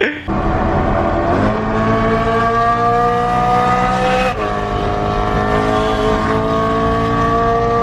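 BMW E92 M3's V8 running through a straight-piped Valvemaster catback exhaust with no resonators, steady and loud. Its pitch climbs slowly, drops sharply about four seconds in, then climbs again.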